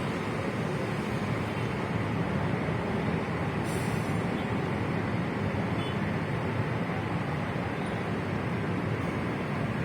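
Steady rumble of vehicles moving, with a short hiss about four seconds in.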